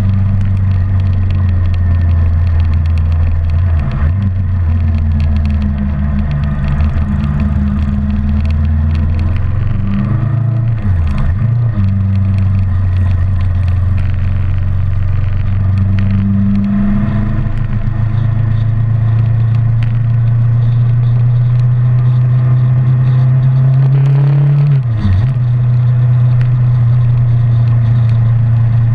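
Kawasaki 650R motorcycle's parallel-twin engine running at cruising speed, with road and wind rush. The engine note dips sharply and recovers twice, about 11 and 25 seconds in.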